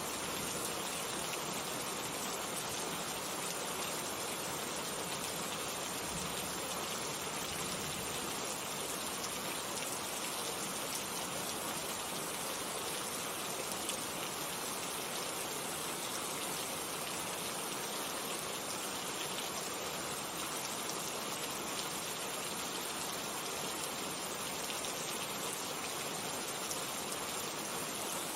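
Steady rainfall, an even hiss of many raindrops falling on a surface, with no change in strength.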